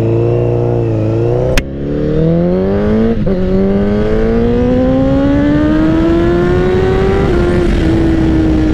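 Honda CBR1000RR's inline-four engine accelerating hard through the gears, with a sharp click and break about a second and a half in and another short step about three seconds in. After that the revs climb steadily in one long pull for about four seconds, then level off and ease down.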